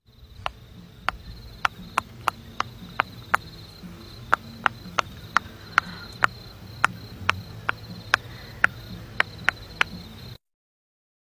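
Silicone pop-it fidget toy being pressed bubble by bubble: a string of short sharp pops, about two to three a second at uneven spacing, stopping suddenly near the end.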